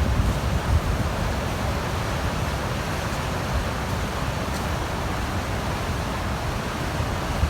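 Steady rushing roar of Niagara Falls, with wind buffeting the microphone in uneven low gusts.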